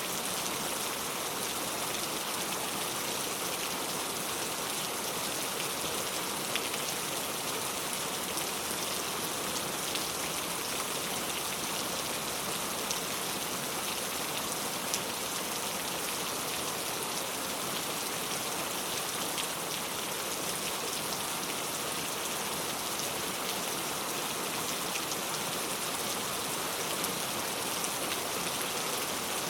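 Heavy rain falling steadily: a dense, even hiss with scattered sharper drop impacts.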